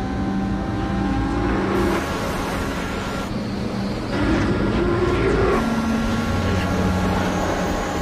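Sports-car engines of a Mazda RX-7 and a Mitsubishi Eclipse running flat out side by side, over tyre and road noise. The engine note holds a steady drone and rises in pitch a couple of times.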